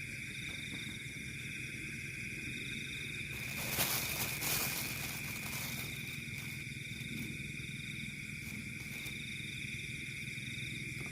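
Night chorus of insects and frogs: a continuous high drone with a pulsing trill over it. A brief burst of rustling noise comes about four seconds in.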